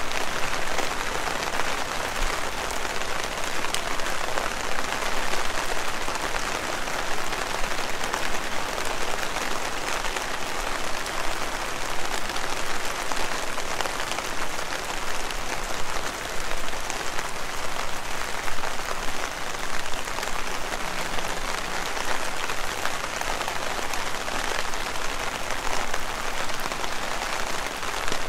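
Heavy rain falling steadily: a dense, even hiss of pattering drops.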